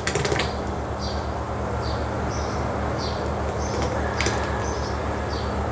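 A small bird chirping over and over, short high chirps about twice a second, over a steady low hum. A single sharp click about four seconds in.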